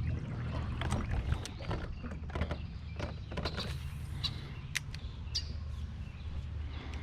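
A low steady hum, with scattered sharp clicks and knocks of gear and fittings on an aluminium jon boat.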